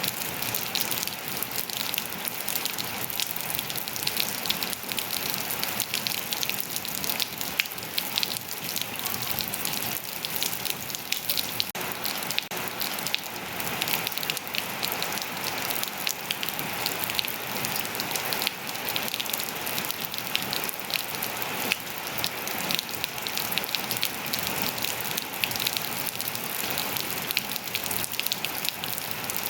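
Steady rain falling on hard surfaces, a dense even hiss with many small drop ticks and splashes throughout.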